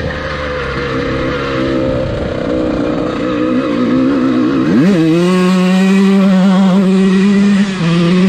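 Dirt bike engine running with an unsteady pitch, then revving up quickly about five seconds in and holding a steady, louder note, with a brief dip near the end.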